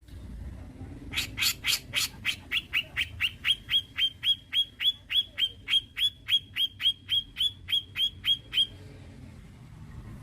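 Cucak jenggot (grey-cheeked bulbul) giving a long, fast run of sharp, repeated downslurred calls, about four a second, that stops well before the end.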